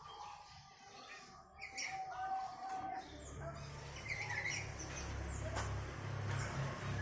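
Small birds chirping and calling, with short high downward-sweeping notes and a held, lower note near the middle. A low steady hum comes in about three seconds in.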